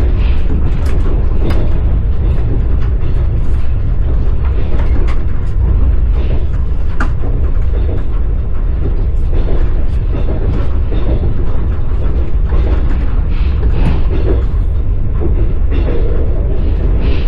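Passenger train running, heard from inside the carriage: a steady low rumble with the clatter and knocks of the wheels on the rails.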